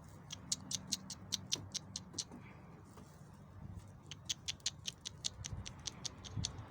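Pigeon pecking at grain, making rapid light ticks at about six a second in two runs of about two seconds each.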